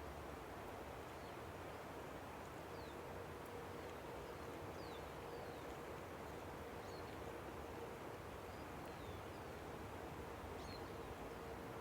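Steady rushing of a river, with faint, scattered high bird chirps, each a short falling note, every second or so.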